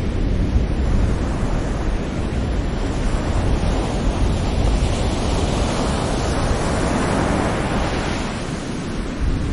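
Sea waves breaking on the shore: a steady low rush of surf, with a hissing wash that swells about halfway through and fades again.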